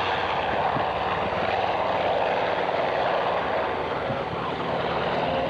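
An aircraft flying during a display, its engine giving a steady noise.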